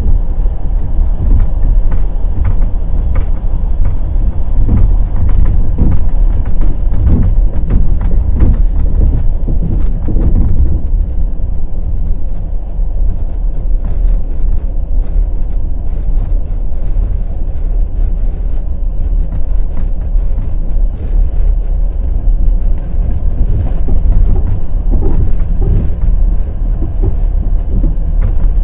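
Passenger train rolling on rails, its wheels clattering and knocking over rail joints and points above a steady low rumble, with the knocks thickest in the first ten seconds or so.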